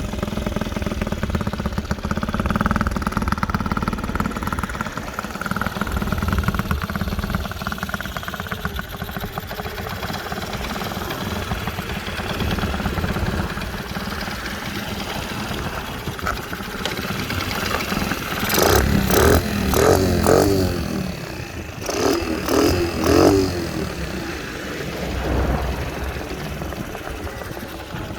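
Bored-up Honda Dax AB26 single-cylinder four-stroke engine with a Takegawa big carburettor, idling through a Takegawa street muffler. About two-thirds of the way through it is blipped several times in quick succession, the revs rising and falling sharply, then once more before settling back.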